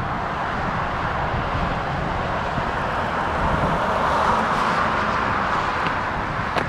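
Jet airliner engines at take-off thrust: a steady rushing noise that swells a little about four seconds in, with wind rumbling on the microphone underneath.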